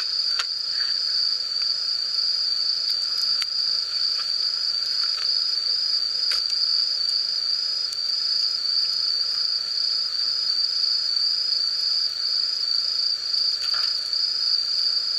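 Insects trilling in a continuous high, evenly pulsing chorus, with a few faint scattered clicks.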